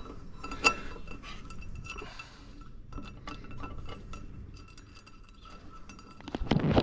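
Light metal clinks and taps, most likely the winch rope's fittings knocking against the new steel fairlead as the rope is fed through. A faint steady high tone runs underneath, and a louder rustling sound starts near the end.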